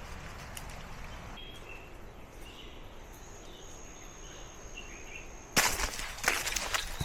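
Quiet outdoor trail ambience with a few faint chirps and a thin, high, steady tone for a couple of seconds in the middle. About five and a half seconds in, close, loud crunching footsteps on the trail suddenly start.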